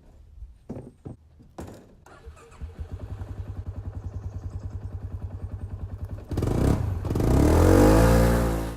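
Polaris RZR side-by-side's engine: a few knocks, then the engine chugs with an even pulse, and about six seconds in it gets much louder and revs up and down.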